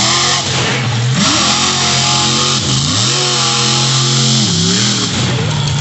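Monster truck engine revving hard, its pitch repeatedly dropping and climbing again as the throttle is lifted and reapplied.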